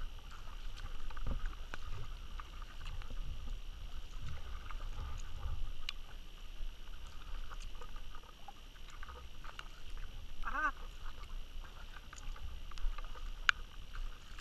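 Kayak paddling: paddle blades dipping and splashing in river water, over a low rumble. About ten and a half seconds in comes one short call that rises and falls in pitch.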